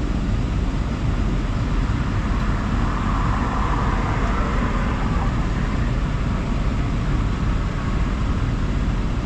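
Steady engine noise from heavy construction equipment running, an even mechanical rumble with a brighter rushing that swells for a couple of seconds in the middle.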